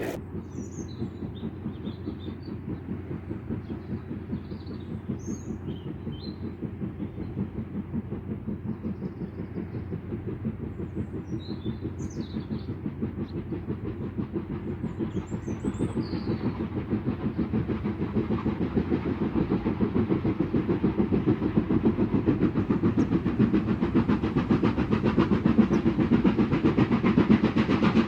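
Steam locomotive working along the line, its exhaust chuffing in a fast, even rhythm that grows steadily louder as the train approaches. Faint bird chirps sound in the first half.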